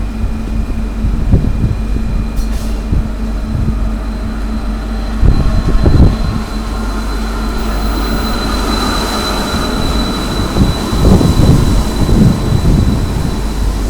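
Passenger train running: a steady low rumble with irregular knocks, and a thin high whine that comes in a couple of seconds in, grows louder in the middle and fades near the end.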